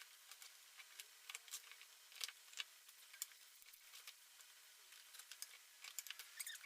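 Near silence with faint, scattered light clicks and ticks of small products and packaging being handled.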